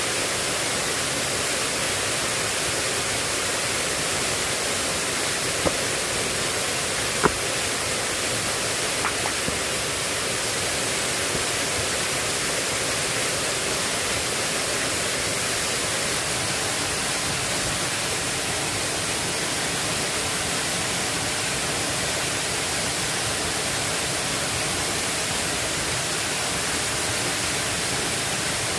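Heavy rain falling in an even, steady hiss, with a few faint sharp clicks in the first third.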